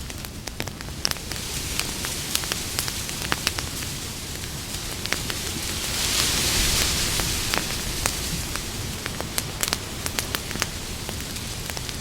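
Wood campfire crackling, with frequent sharp, irregular pops over a steady low rumble of flame. About halfway through, a brief hiss swells up and fades.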